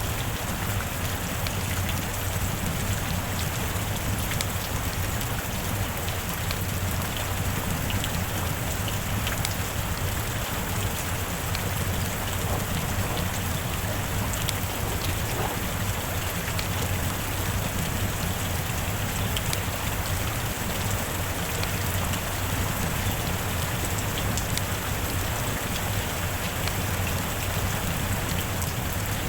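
Heavy rain falling steadily: an even hiss with scattered sharp drop ticks and a constant low rumble beneath.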